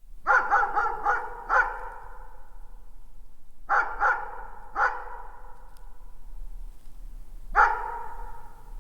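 A dog barking in the distance. First comes a quick run of five barks, then a pause, then three more, then a single bark near the end. Each run trails off in echo.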